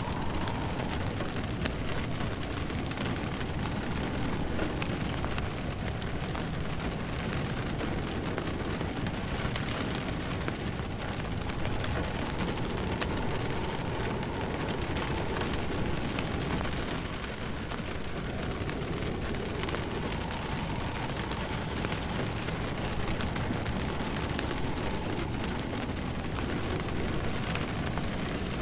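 Steady rain falling on a surface, with a wood fire crackling in short sharp pops over it. A faint wind moan rises and fades every few seconds.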